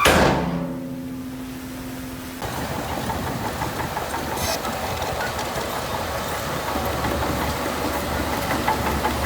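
Heavy diesel earthmoving machinery running steadily, with a loud crash right at the start that fades over about a second; the engine sound changes abruptly a couple of seconds in.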